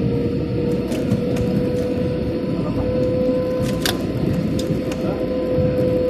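Airliner engines and rushing air: a steady low rumble with a steady whine that rises slightly in pitch, and a few faint clicks.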